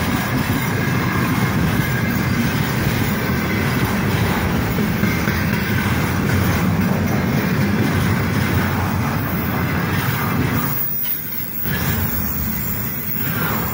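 Container freight wagons rolling past close by: a loud, steady rumble of steel wheels on the rails with clattering over the joints. It dips briefly about eleven seconds in, then picks up again.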